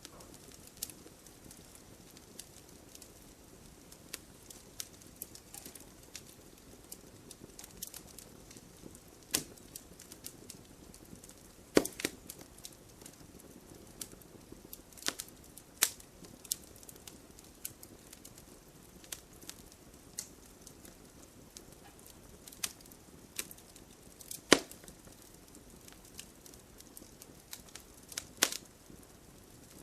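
Logs burning in a fireplace: irregular sharp crackles and pops over a low steady hiss, the loudest pops about twelve seconds in and near twenty-five seconds in.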